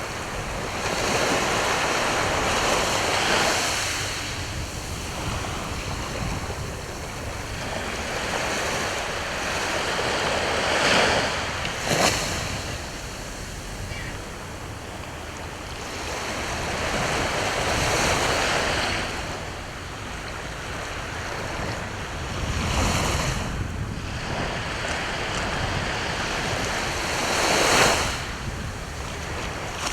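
Sea waves breaking and washing on the shore, the surf swelling and fading every few seconds, with a few sharper crashes.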